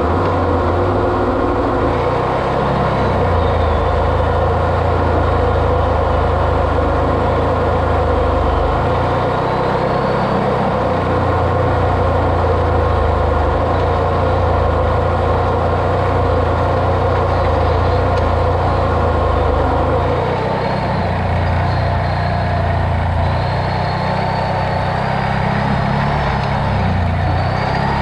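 A vehicle engine running steadily while driving, with a strong low rumble. About twenty seconds in, the engine note drops and the sound becomes a little quieter.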